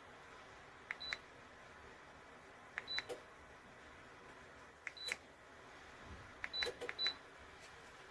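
Button clicks, each answered by a short high electronic beep from the Dreo wall heater's controls: about a second in, at about three and five seconds, then two in quick succession near seven seconds, over a faint steady hiss.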